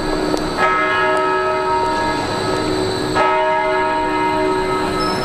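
A large bell tolling slowly, struck about half a second in and again just after three seconds, each stroke ringing on with many overtones until the next.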